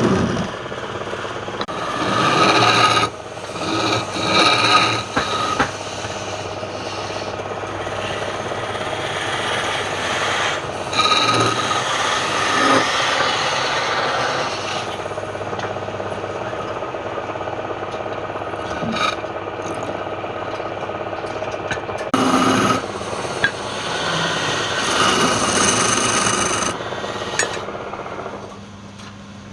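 Wood lathe running with a steady motor hum while a tool or abrasive rubs and scrapes against the spinning wood, swelling and easing in stretches of a few seconds. It goes quieter near the end.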